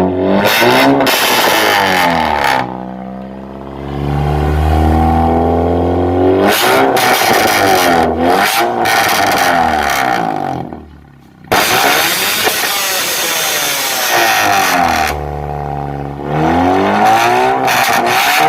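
Honda Brio engine free-revving through a full aftermarket exhaust system with a dry, crisp note; the revs climb and fall back several times, settling briefly to a low idle in between.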